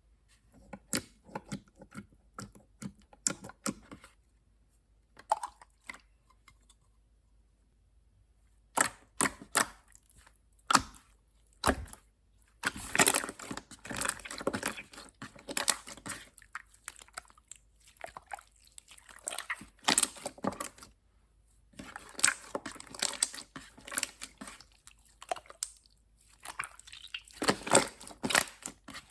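Slime being squeezed and poked by hand: irregular bursts of sticky clicks and crackles, with short pauses between handfuls.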